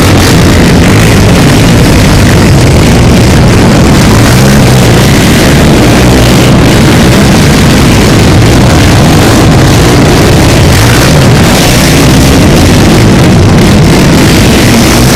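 A crowd of ATV, dirt-bike and side-by-side engines running together at a race start, a dense, unbroken mass of engine noise loud enough to hold the recording near its maximum level.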